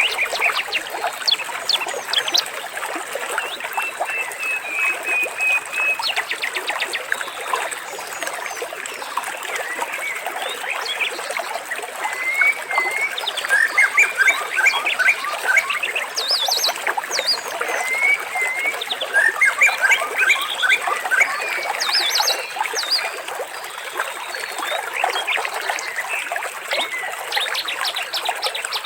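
Many birds chirping, trilling and whistling in a dense, continuous chorus over gently trickling water.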